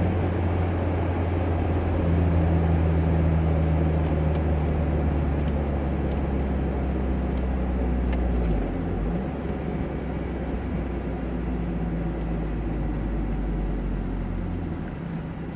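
2002 Mazda Miata's catless 1.8-litre four-cylinder, heard inside the closed cabin through a Goodwin Racing Roadster Sport 3 muffler: a loud, low exhaust drone as the car slows toward a stop. The drone drops in pitch about halfway through and softens near the end.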